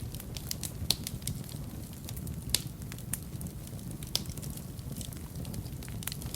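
Wood fire burning in a fireplace: a low steady rumble of flames with irregular crackles and sharp pops, the loudest pops about one, two and a half and four seconds in.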